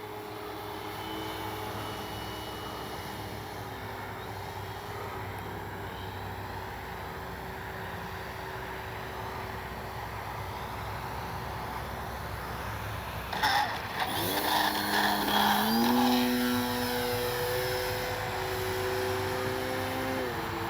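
Electric RC plane in flight: a Spektrum Avian 4250-800Kv brushless outrunner turning a 13 x 6.5 propeller, a steady whine that glides up and down in pitch with throttle. From about 14 seconds in it grows louder and steps up in pitch.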